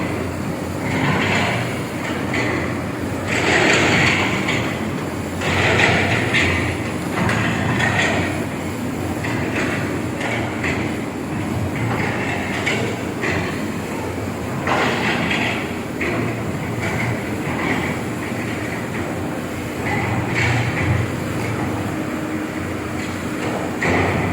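Hydraulic excavators working in a deep foundation pit: diesel engines running steadily under load, with repeated harsher bursts of noise every second or two as the machines dig.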